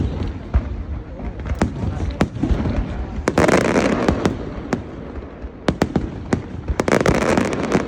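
Fireworks display exploding: a rapid, irregular series of sharp bangs, with two spells of dense crackle, about three and a half seconds in and again about seven seconds in.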